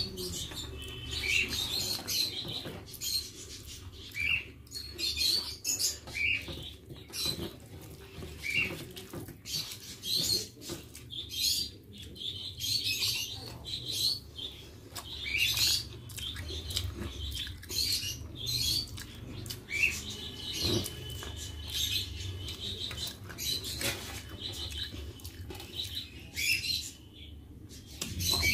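Close-up eating sounds: wet chewing and lip smacking, in short bursts about once or twice a second, as soft rice is eaten by hand. A steady low hum runs underneath.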